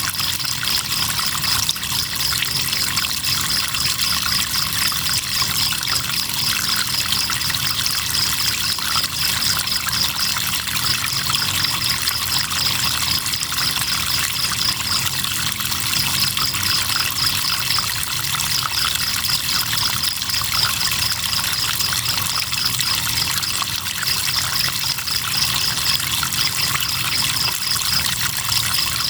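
River water flowing and trickling, with crickets chirping over it in a high, fast pulsing trill that breaks off briefly every few seconds.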